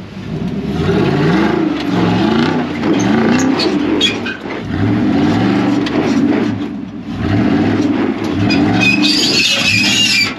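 Pickup truck engine revving in repeated rising and falling surges as it crawls over rocks, with scattered knocks and scrapes. The spotters take the knocking for the truck bed hitting the rocks.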